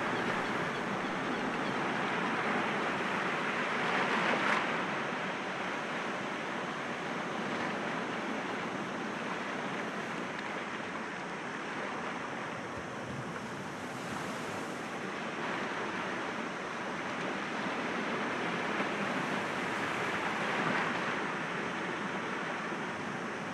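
Sea waves breaking against rocks: a continuous wash of surf that swells and eases slowly, with stronger breaks about four seconds in and again near the end.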